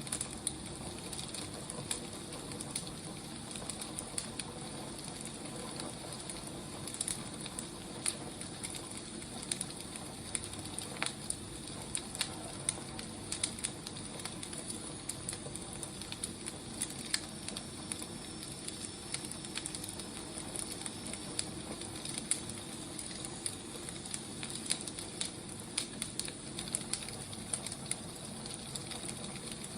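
Firewood burning: a steady low hiss with frequent, irregular sharp crackles and pops.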